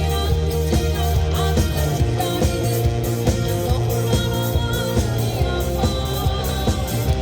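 Live rock band playing at full volume: drum kit keeping a steady beat under sustained bass notes, with guitar and keyboard parts above.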